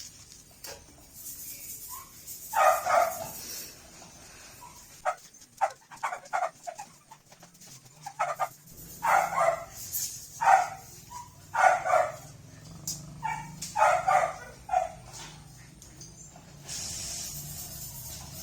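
A dog barking in short, loud barks: a couple about two seconds in, then a longer string of barks from about nine seconds to fifteen seconds. Light knocks fall between the bouts, and a steady hiss comes in near the end.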